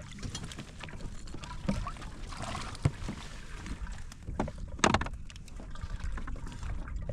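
Handling noises aboard a fishing kayak: a few scattered knocks and clunks over a steady low rumble, the loudest knock about five seconds in.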